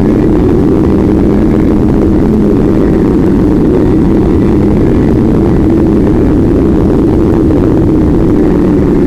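An engine running steadily at a nearly constant pitch, loud and close, over a dense rushing noise.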